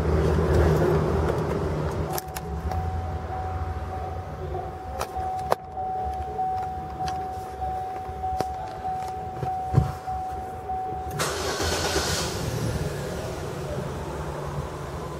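Chevrolet Cruze's engine idling, a low steady rumble heard inside the cabin. A few sharp clicks sound over it, and a steady high tone holds from about two seconds in to about eleven seconds in, then cuts off.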